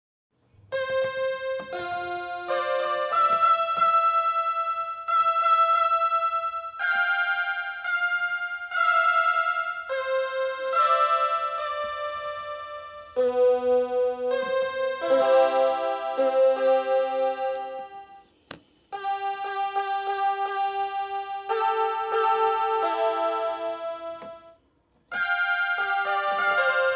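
Music from a keyboard instrument playing a melody in held notes, with chords, breaking off briefly twice in the second half.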